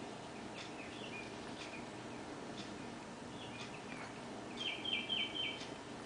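Songbirds chirping: scattered short high chirps, then a quick run of four louder notes about five seconds in, over steady low background noise.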